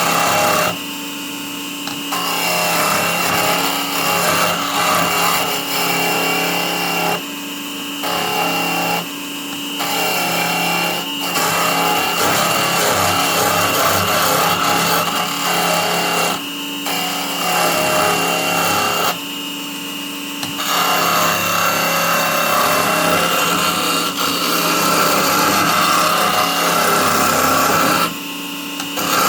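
Small benchtop wood lathe running with a steady motor hum and a high whine, while a turning chisel scrapes and cuts the spinning wood in stretches, shaping it into a cone. The cutting noise breaks off briefly several times as the tool is lifted away.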